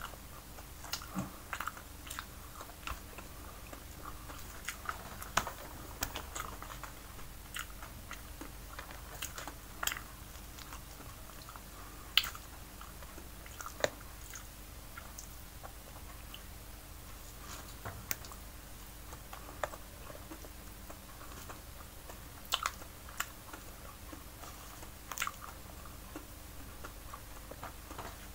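Chewing and mouth smacks of someone eating steamed fish by hand, with irregular sharp clicks and smacks scattered throughout over a faint steady hum.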